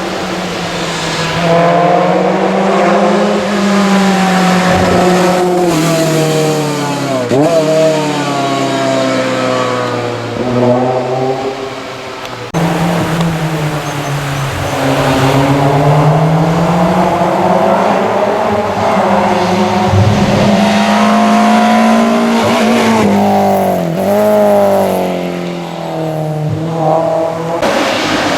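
Historic rally car engines at full effort on a stage, the pitch climbing through the gears and dropping sharply as the drivers lift and shift for corners. The sound cuts abruptly to another car about halfway through and again near the end.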